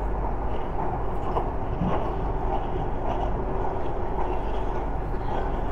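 Inside a BTS Skytrain carriage on the move: the steady running noise of the train, a low rumble with a hiss over it and a few faint ticks.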